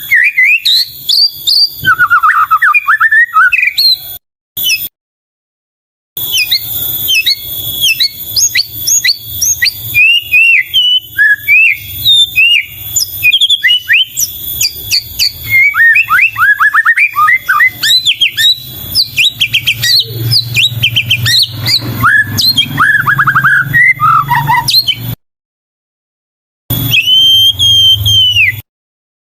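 White-rumped shama (murai batu) singing a fast, varied song of whistles, chirps and trills, broken by a few sudden silent gaps, with one long held whistle near the end.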